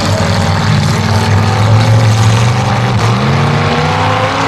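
Demolition derby car engines running hard and loud, the pitch dipping and rising again about three seconds in as a car revs.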